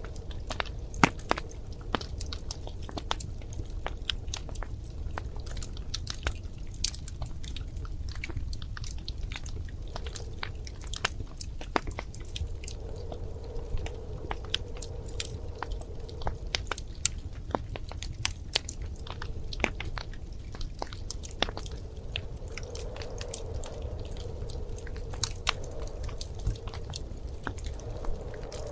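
Wood fire crackling in a fireplace: irregular sharp pops and snaps over a steady low rumble, with a faint hum that comes and goes in the second half.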